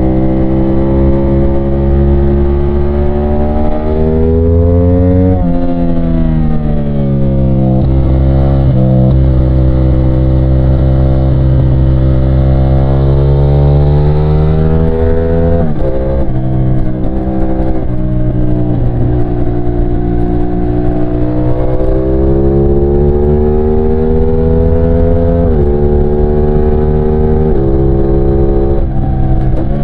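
CFMOTO 450SR's 450cc parallel-twin engine under way. Its pitch climbs and falls repeatedly, with a steady cruise through the middle and several sudden drops in pitch, as at gear changes.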